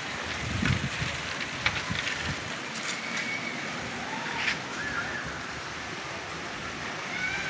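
Steady rainfall hiss, with a few short high-pitched chirps over it and some low wind rumbles in the first couple of seconds.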